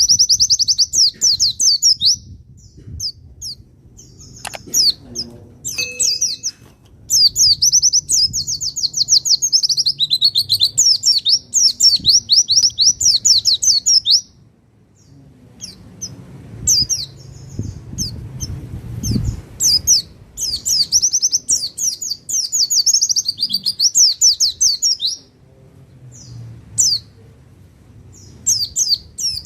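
Pleci (white-eye) singing: long runs of very fast, high chirping trills, three main bursts with shorter chirps between them, over a faint low hum.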